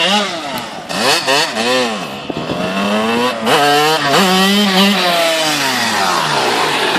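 1997 Suzuki RM125's single-cylinder two-stroke engine revving in three short rises and falls, then pulling hard up through the gears in stepped climbs before its pitch sweeps down as the bike goes past.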